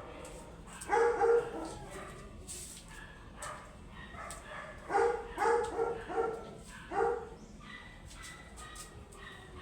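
A dog barking in short bouts: two or three barks about a second in, a quick run of four near the middle, and one more shortly after.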